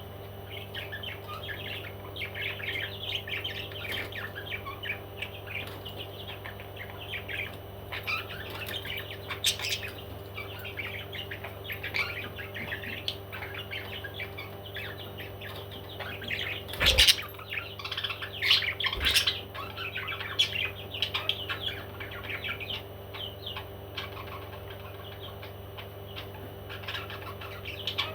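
A group of small parrots chirping and chattering continuously over a steady low hum, with two sharp knocks about two seconds apart past the middle.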